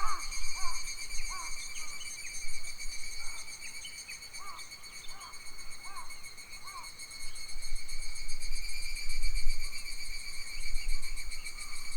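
A steady chorus of insects shrilling, with a bird repeating short arched call notes in runs through the first half. Bursts of low wind rumble on the microphone grow stronger after the middle.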